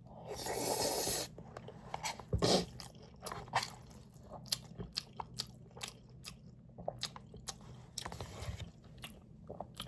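A person chewing and biting food close to the microphone: many short, irregular crunching clicks. A second-long noisy rustle comes near the start.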